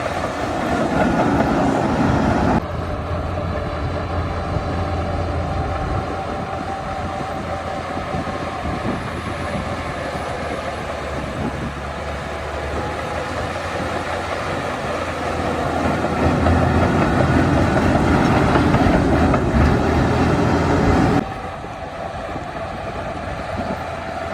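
Shantui DH17 crawler bulldozer at work: its diesel engine running steadily under the clatter of its steel tracks. The sound jumps abruptly about two and a half seconds in and again near the end.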